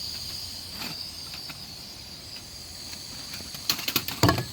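A steady high-pitched insect drone, with a cluster of sharp clatters near the end.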